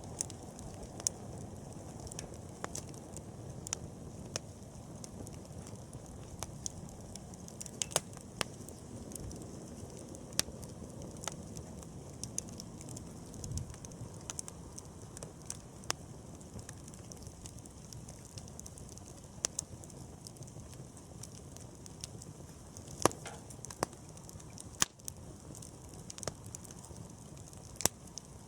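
Wood campfire burning: a low steady rush of flames with irregular sharp crackles and pops from the burning wood.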